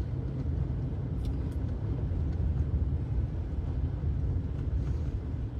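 Steady low rumble of a car driving on a snow-covered road, engine and tyre noise heard from inside the cabin, with a couple of faint clicks about a second in.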